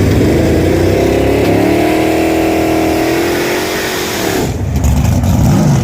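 Drag race car's engine running hard at full throttle. Its pitch rises about one and a half seconds in, holds, then drops off about four seconds in, followed by a lower, wavering engine note.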